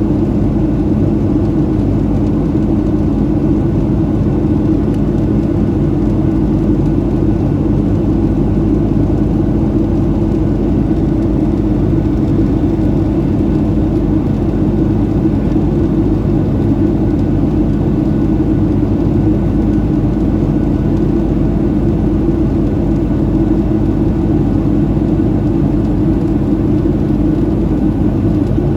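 Steady cabin noise of a Boeing 737-700 in flight: an unchanging low rumble of the CFM56 jet engines and airflow, with a constant hum.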